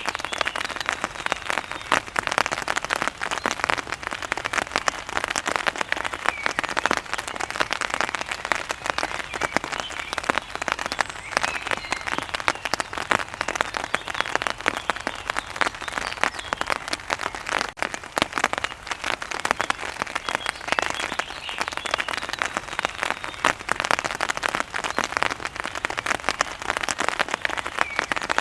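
Steady rain pattering densely on surfaces, a thick crackle of countless drops, with faint short bird chirps now and then.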